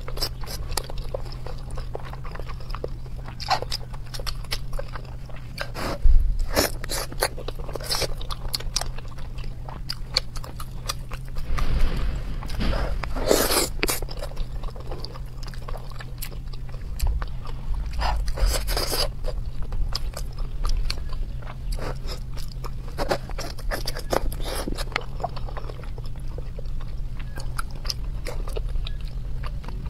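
Close-miked chewing and mouth sounds of a person eating braised pork belly, with many scattered short clicks and a few louder bursts of chewing.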